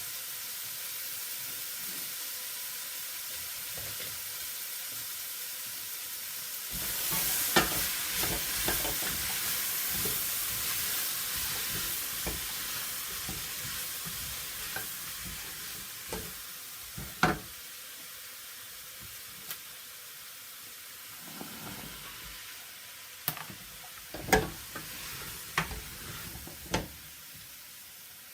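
Food sizzling in a frying pan as it is stirred, with occasional sharp knocks of a utensil against the pan. The sizzle grows louder about seven seconds in, then slowly dies down.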